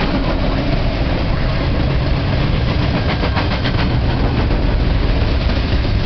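Double-stack container freight cars rolling past at close range: a steady, loud rumble of steel wheels on rail, with a quick run of wheel clicks about three seconds in.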